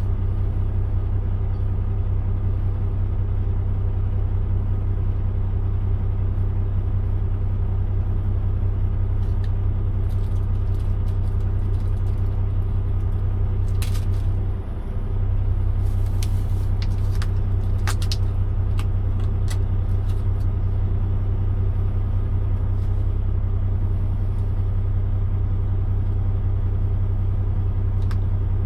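Steady low hum inside a parked truck's cab, with scattered sharp clicks and light rattles between about ten and twenty seconds in.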